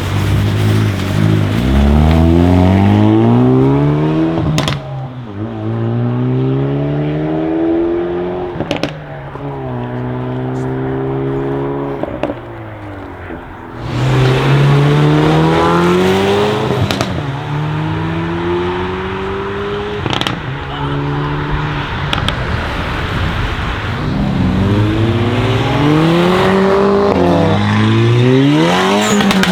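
Hyundai i30 N's turbocharged 2.0-litre four-cylinder accelerating hard through the gears. The pitch climbs in each gear and drops at each upshift, with a sharp crack from the exhaust at several of the shifts.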